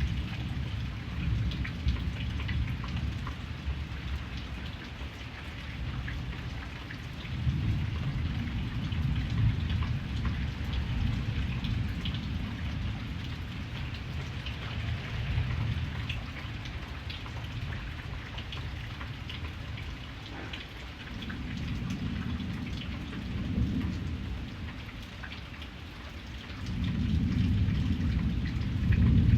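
Steady rain falling, with many small drop ticks, under thunder rumbling. The rumble swells several times, loudest near the end.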